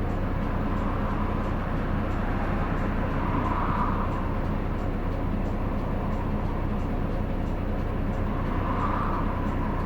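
Hino Blue Ribbon City diesel city bus driving, heard from inside the cabin: steady engine hum and road noise, swelling a little twice, with a faint regular ticking about twice a second.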